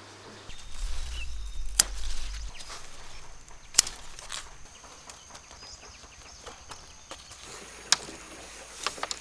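A few sharp, separate clicks or snaps, spaced seconds apart, with a quick pair near the end, over a low rumble in the first couple of seconds.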